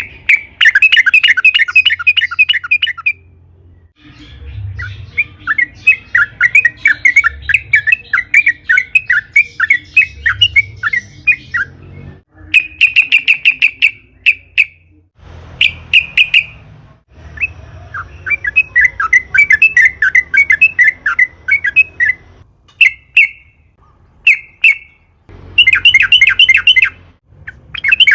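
Yellow-vented bulbul (trucukan) singing long, rapid chattering phrases of quick repeated notes, with short pauses between them.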